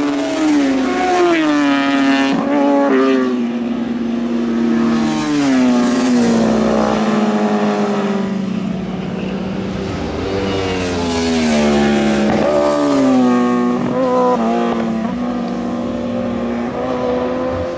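Superbike racing motorcycles at high revs, their engine notes sliding down in pitch again and again as bikes go by or shift gear, with several engines overlapping.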